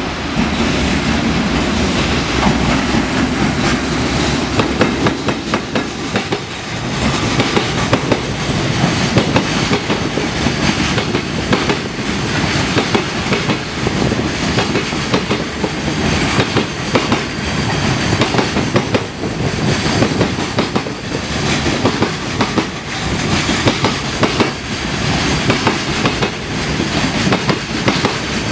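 Freight train hauled by an EF210 electric locomotive passing at speed, its wagon wheels clattering over the rail joints in a steady run of rapid, rhythmic clicks.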